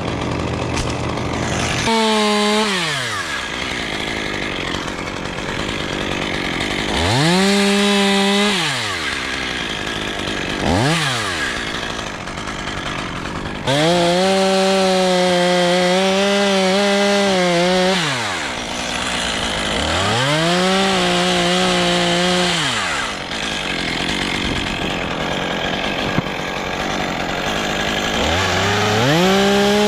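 Chainsaw revved to full throttle in repeated bursts of one to four seconds as it cuts wood, the pitch falling away between cuts. The longest run of steady high revs comes about halfway through.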